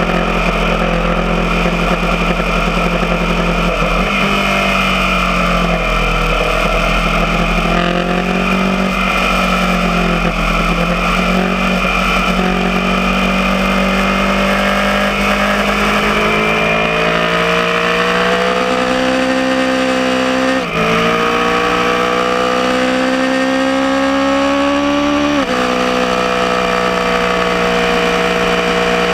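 Aprilia Tuono motorcycle engine on a racetrack, running hard under throttle. It eases off and picks up through a bend, then revs climb steadily, with two quick upshifts (sharp drops in pitch) about two-thirds of the way through and again a few seconds later.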